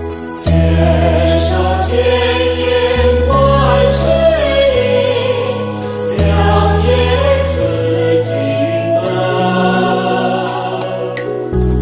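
Buddhist devotional song in praise of Guanyin: voices sing a melody over sustained low chords that change every few seconds, with a light, regular percussion tick.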